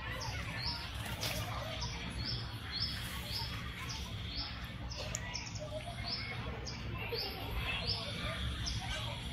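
A bird chirping over and over, a short high note repeated evenly about twice a second, over a steady low background rumble.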